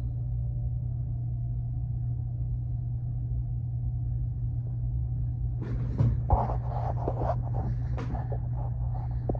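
Freight train going by, heard from inside a room as a steady low sound. From about six seconds in, knocks and rustling from the camera being handled and moved.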